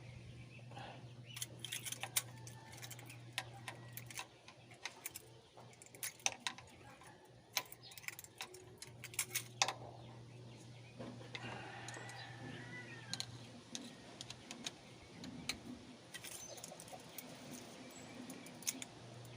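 Irregular sharp metallic clicks and clinks of hand tools being worked on an engine, over a steady low hum.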